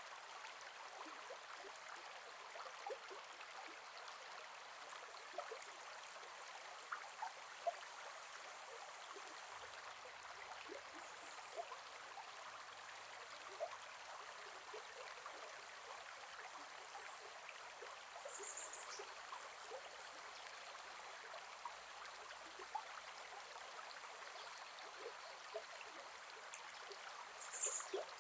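Gentle forest river flowing steadily, a soft even rush of water with many small splashes and trickles. Two brief high chirps, about two-thirds of the way in and near the end.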